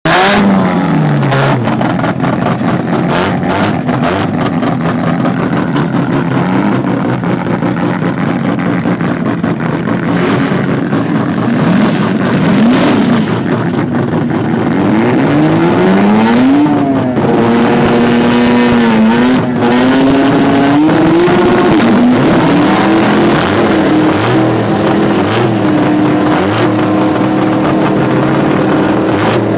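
Mazda RX-7's engine revving loudly, its note rising and falling several times, then held at raised revs over the last several seconds.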